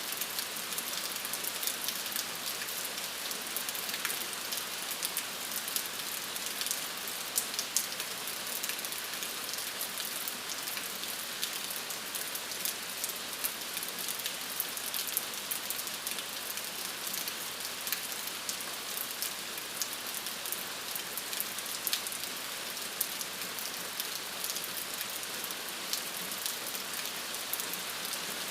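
Steady rain falling on a surface, a constant hiss with many small drop ticks.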